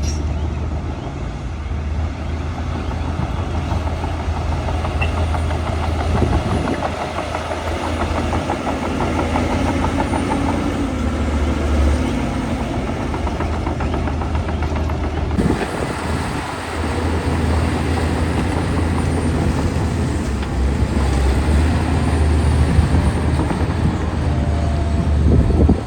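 Heavy diesel earthmoving machinery, a bulldozer, running steadily with a deep low hum. The sound shifts abruptly about halfway through.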